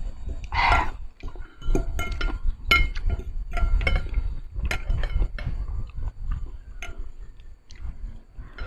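Close-miked eating of spicy Korean noodles: mouth noises of slurping and chewing, with utensils clinking against the dish.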